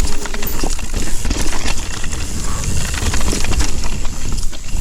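Irregular knocks, clatter and rustling over a steady low rumble: handling noise from a crashed mountain biker and his bike scrambling over loose ground.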